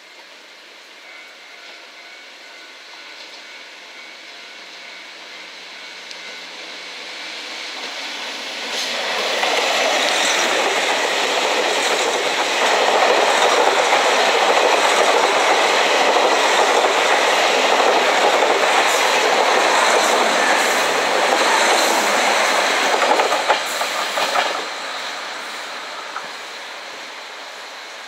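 KiHa 261 series diesel multiple unit passing at speed. It grows louder as it approaches, and its wheels clatter over the rail joints for about fifteen seconds as the cars go by. The sound then fades quickly as the train pulls away.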